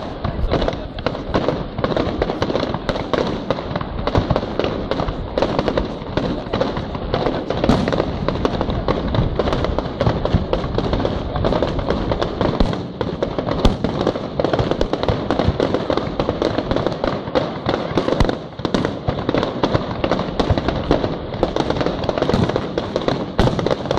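Fireworks display going off in a dense, unbroken barrage of bangs and crackling, with aerial shells and low-level firework pieces firing together.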